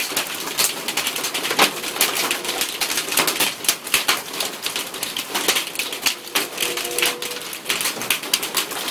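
Hailstones pelting a surface, likely the awning: a dense, irregular clatter of sharp ticks.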